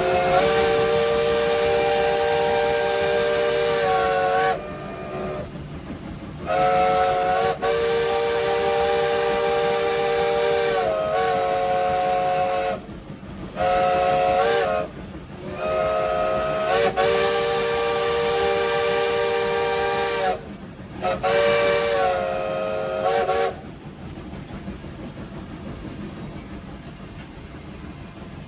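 Nevada Northern No. 81's steam chime whistle blowing a chord of several notes in four blasts, long, long, short, long, the grade-crossing signal, with a quick break in the last one. A steady hiss of steam and running noise follows, more quietly.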